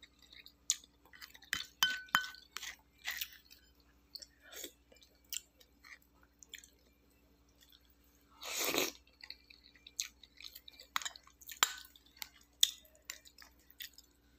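A person chewing and eating bakso, meatballs in broth, close to the microphone, with scattered small clicks. One longer, louder noise comes a little past the middle.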